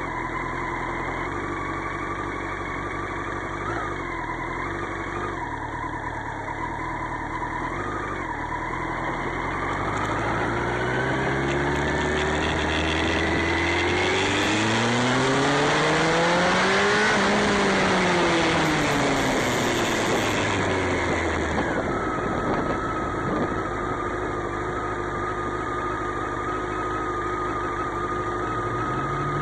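Motorcycle engine running steadily at low speed, then accelerating through the gears with a rising pitch, peaking about halfway, and easing off with a falling pitch back to a steady low note. Wind noise rises and falls with the speed.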